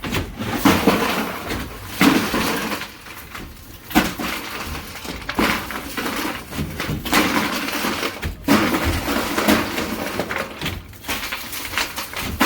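A series of loud crashing, breaking noises, one every second or two.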